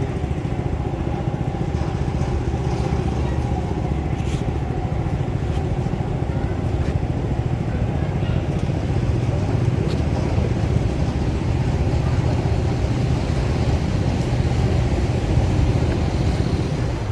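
An engine running steadily with a low drone, growing a little louder in the second half.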